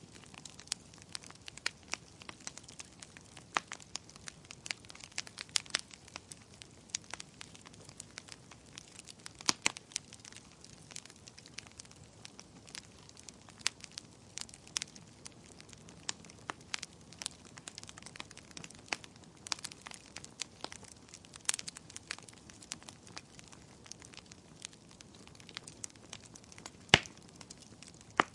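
Wood bonfire crackling, with irregular sharp pops several times a second over a faint steady hiss, and one louder pop near the end.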